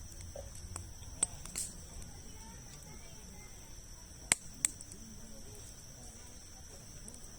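Wood campfire of large logs burning, with four sharp crackling pops, the loudest about four seconds in. A steady high-pitched tone runs underneath.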